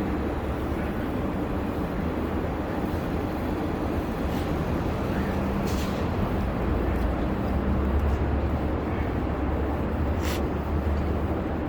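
Street traffic, with a heavy vehicle's engine running as a steady low hum that grows louder about two-thirds of the way through.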